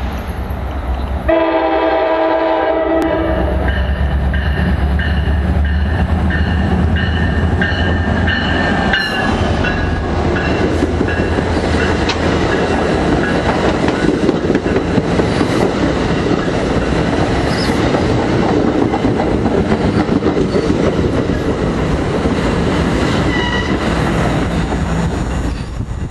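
NJ Transit commuter train passing at speed: a locomotive horn blast starts about a second in, the locomotive's low rumble goes by, then the bilevel coaches roll past with steady wheel and rail noise until the train has gone.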